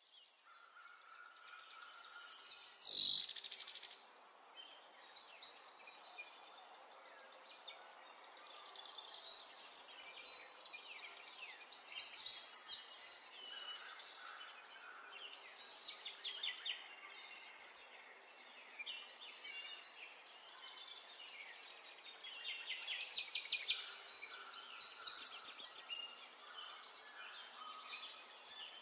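Songbirds singing: bursts of rapid trills and chirps, high in pitch, recurring every few seconds. About three seconds in, a loud sweep falls sharply in pitch.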